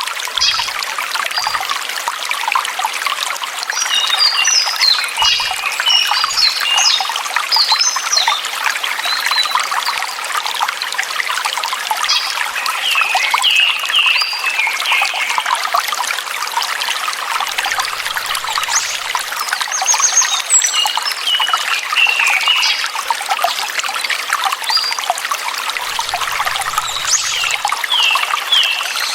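Water trickling steadily, with small songbirds chirping in short bursts of quick high notes every few seconds.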